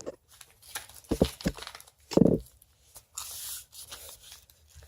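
A sheet of paper being folded and creased by hand: crinkling and rustling with several light taps, a louder dull knock a little over two seconds in, and a short sliding rasp just after three seconds.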